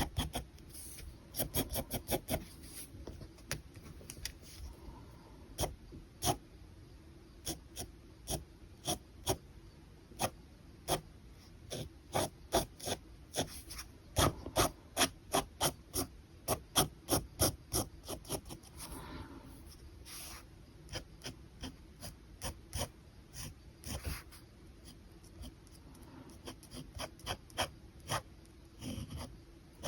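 Pen scratching on paper in quick, short sketching strokes, several a second, in runs with brief pauses between them.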